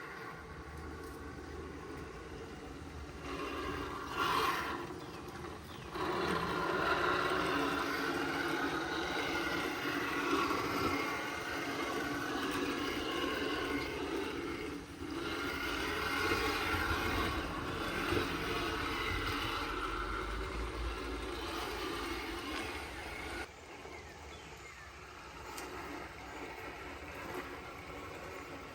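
Radio-controlled truck with an 1800 kV electric motor on a 3S battery running, its motor and drivetrain giving a steady noise that gets louder about six seconds in and drops back about three-quarters of the way through.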